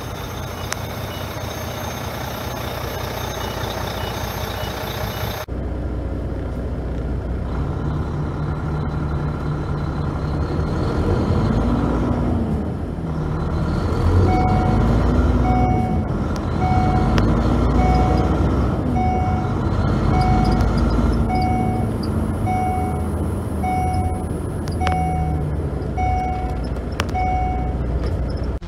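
Diesel engine of a 2015 Volvo semi tractor running, its pitch rising and falling as it is revved or driven. From about halfway through, a reversing alarm beeps steadily about once a second.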